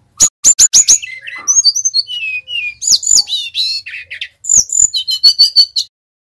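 Sikatan rimba dada coklat (jungle flycatcher) singing a fast, varied phrase. It opens with sharp, high, downward-flicking chirps, moves into whistled notes sliding down in pitch, and ends in a quick high trill that stops about six seconds in.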